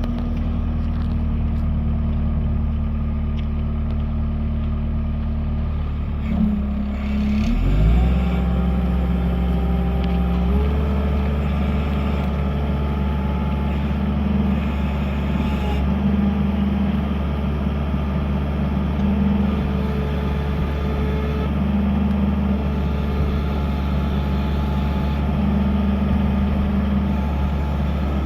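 Diesel engine of a Case SV185 skid steer loader running steadily at idle, then revving up about seven seconds in and holding at a higher steady speed.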